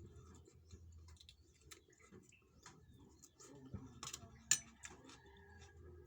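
Quiet eating sounds from a meal of rice and side dishes: scattered small clicks, taps and mouth noises, with one sharper click about four and a half seconds in.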